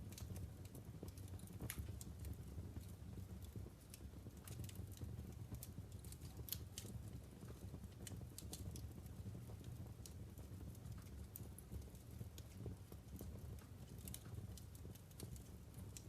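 Wood fire crackling in a fireplace: irregular sharp pops and snaps from burning logs over a low, steady rumble.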